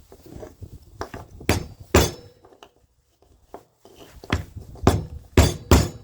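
Sharp clinks and knocks of small metal and plastic parts being handled and pried at with hand tools, about seven strikes in two clusters, the loudest near the end.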